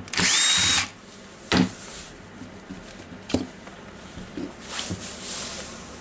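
A cordless electric screwdriver runs in one short burst, its whine rising and then holding steady as it backs out a housing screw. A few sharp clicks of screws and plastic housing parts being handled follow.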